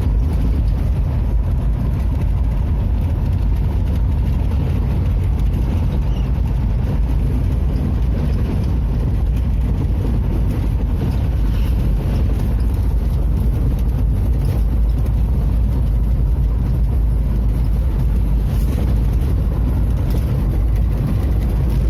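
A car driving along a road: a steady low rumble of engine and tyre noise that holds even throughout.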